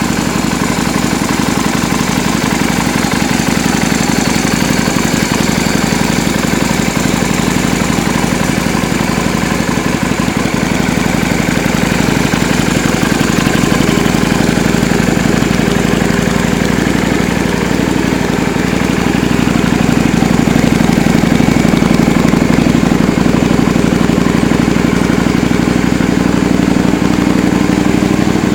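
Yamaha Drag Star 250's air-cooled V-twin engine idling steadily through an aftermarket custom muffler. It gets a little louder about two-thirds of the way through.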